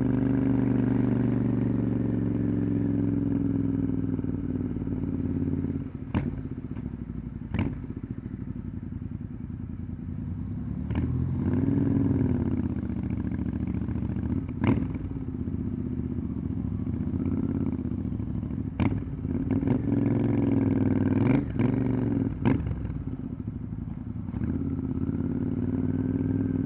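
Motorcycle engine running under way, easing off about five seconds in, then its revs rising and falling again and again. Sharp clicks come every few seconds.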